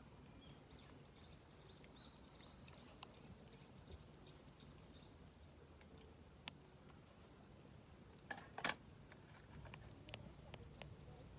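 Near silence with faint bird chirps in the first few seconds, then a few scattered sharp clicks, the loudest pair about two thirds of the way in.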